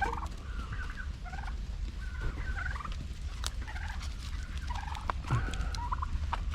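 Flock of pet turkeys calling with many short, repeated high chirping calls, one after another, with a few sharp clicks among them.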